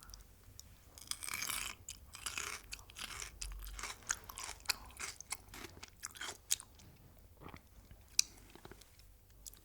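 Close-miked chewing and crunching of crunchy food, with rapid crackles and mouth clicks that are densest in the first few seconds. One sharp, loud crunch comes near the end.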